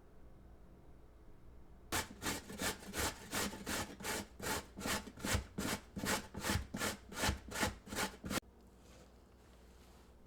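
Zucchini being grated on a hand grater: a run of regular rasping strokes, about three a second, starting about two seconds in and cutting off suddenly near the end.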